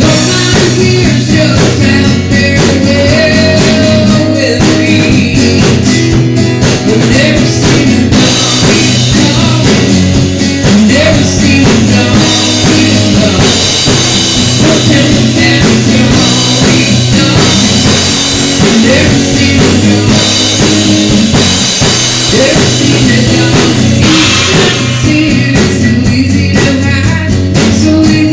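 A rock-blues song played by a band with drum kit and guitar at a steady beat, with wavering melodic lines over the accompaniment.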